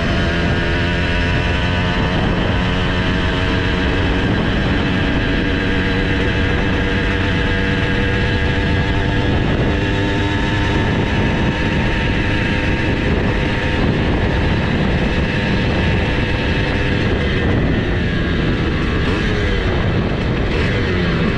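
Simson S51's single-cylinder two-stroke engine, bored to 85cc, running hard at steady high revs on a top-speed run. Wind noise sits over it. Near the end the engine pitch dips and climbs again.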